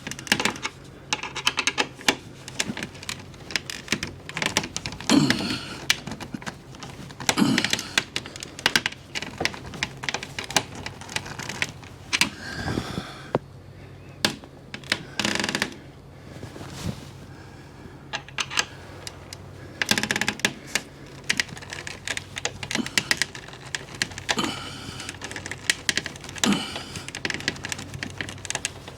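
Irregular run of small clicks and light knocks, with a few louder knocks spread through: hand work tightening screws into a storm door hinge.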